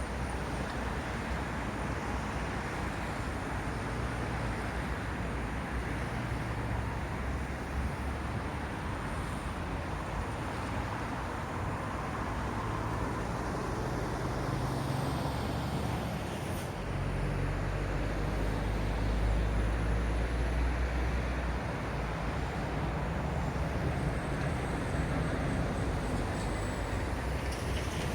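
Road traffic passing on a busy roundabout, a steady rumble of engines and tyres. About two-thirds of the way through a heavier vehicle passes close by, and the low rumble grows louder for a few seconds.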